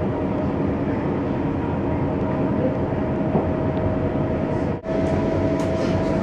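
Steady running noise heard inside the carriage of a moving Elron Stadler FLIRT passenger train: wheels rumbling on the rails, with a thin steady whine. The noise drops out briefly about five seconds in.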